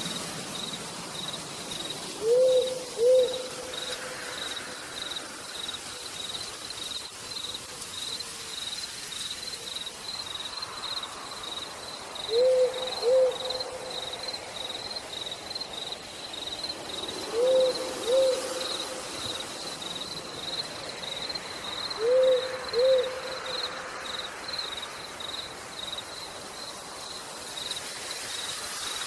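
An owl hooting in short double notes, four times about five seconds apart, over a steady pulsing insect trill and a faint hiss of rain.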